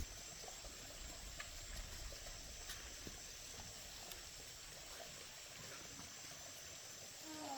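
Quiet outdoor background with a faint, steady high insect drone, like crickets, and a few soft clicks.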